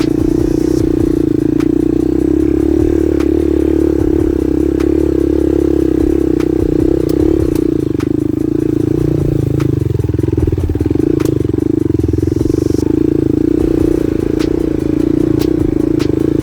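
Small single-cylinder trail motorcycle engine running at a fairly steady pace, the note easing briefly about ten seconds in, with scattered clicks and rattles.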